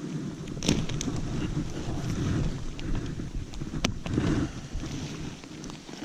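Wind buffeting the microphone, a gusty low rumble, with two sharp clicks, about a second in and near four seconds, from handling the bivvy bag and its poles.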